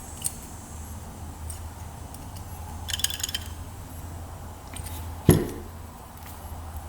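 Small metal carburetor parts and tools clinking and tapping on the bench as the carburetor is taken apart: a cluster of light clinks about three seconds in and a single sharp knock about five seconds in, over a steady low hum.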